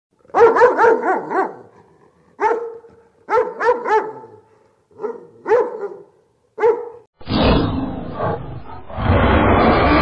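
A dog barking in quick runs of one to five barks with short gaps between them. About seven seconds in, the barking gives way to a loud, dense rumble that swells again near the end.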